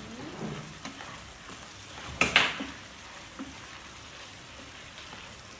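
Ground dried-chilli paste sizzling as it fries in oil in a pan, stirred with a spatula, cooking until the oil separates. A louder, short burst of sound comes a little over two seconds in.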